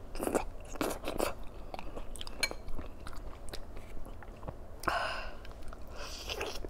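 A person chewing and biting food close to the microphone: a run of short, wet mouth clicks, with a few louder bursts about five and six seconds in.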